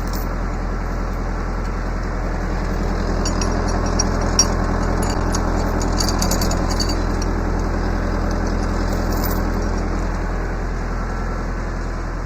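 An engine idling steadily, a little louder in the middle, with a few light metallic clinks about three to five seconds in.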